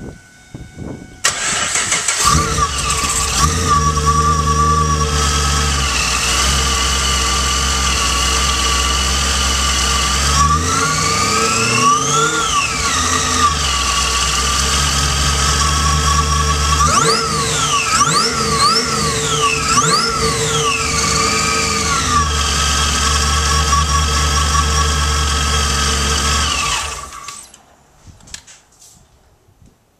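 Supercharged Pontiac G8 V8 with a Magnacharger 2300 on an overdriven cog belt drive, starting about a second in and then idling. It is revved once and then blipped several times in quick succession, with the supercharger whine rising and falling with the revs. The engine is shut off near the end.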